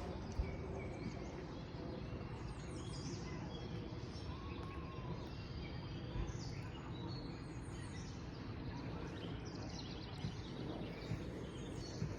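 Songbirds chirping in short, high, down-sweeping notes every few seconds over a steady outdoor background noise, with a couple of faint knocks.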